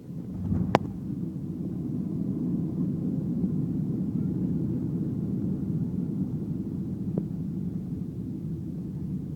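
Cabin noise inside a Boeing 737-700 on its landing approach: a steady low rumble that swells within the first second and then holds. A sharp click comes under a second in, and a fainter one near the end.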